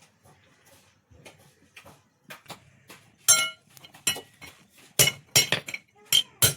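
A blacksmith's hammer striking metal on an anvil, each blow ringing. The first blows are light, scattered taps; heavy strikes start about halfway through and come two or three a second near the end.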